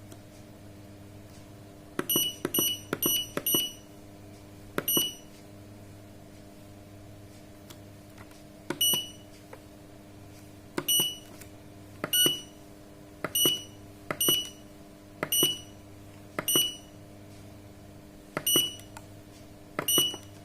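Sanken digital solar water heater controller beeping as its buttons are pressed, one short high beep with a click for each press. The presses are irregular: a quick run of four about two seconds in, then about ten more spaced a second or two apart. A steady low hum runs underneath.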